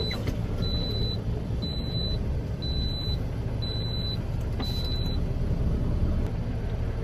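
Semi truck's reverse backup alarm beeping about once a second, six short high beeps that stop a little after five seconds in, over the steady low rumble of the truck's diesel engine as the rig backs up.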